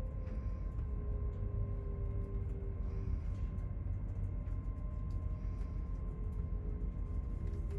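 Soft background music of long held tones over a steady low rumble, likely the train running.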